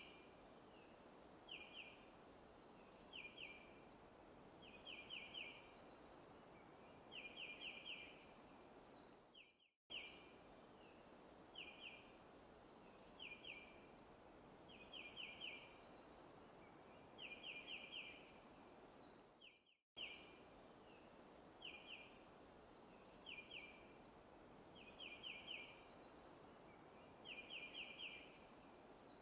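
Faint forest ambience with a bird chirping in short, high notes, singly and in quick runs of three or four, over a steady background hiss. The same ten-second recording loops, cutting out briefly each time it restarts.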